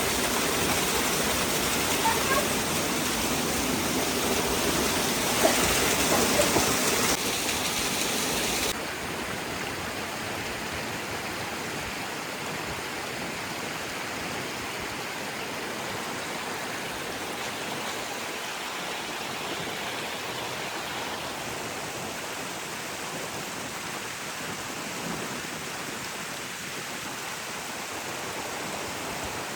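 Steady rush of falling or running water, louder for the first several seconds, then dropping abruptly to a quieter, steady rush about nine seconds in.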